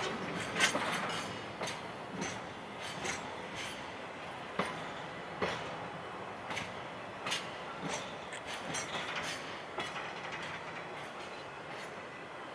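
Freight train's container flat wagons rolling slowly past, wheels clacking over rail joints about once a second and getting gradually quieter as the train slows to a stop.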